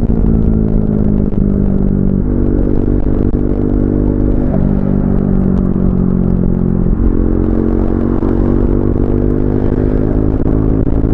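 Triumph Speed 400's single-cylinder engine running under way, its exhaust note holding steady between abrupt pitch changes about 2, 4.5 and 7 seconds in, over a low rumble of wind and road.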